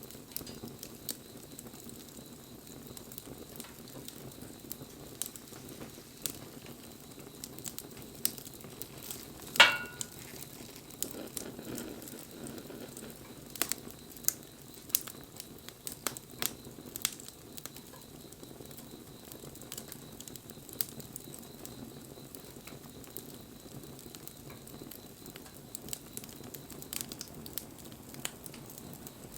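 Wood campfire crackling and hissing, with irregular sharp pops throughout and one loud crack about a third of the way in.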